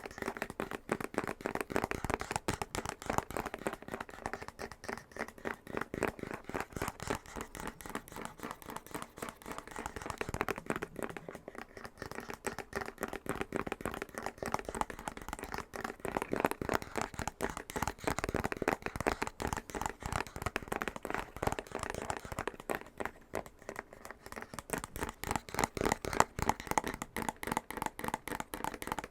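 Fingernails tapping rapidly and continuously on a box, a fast run of light hollow clicks several per second, with some scratching.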